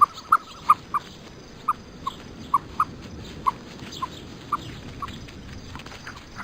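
A small animal making short, high-pitched squeaks over a steady hiss, one every half second or so, a little more spaced out after the first second.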